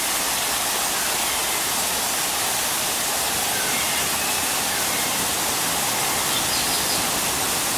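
Steady rushing noise with no rhythm, and a few faint, short, high chirps from birds in the aviary.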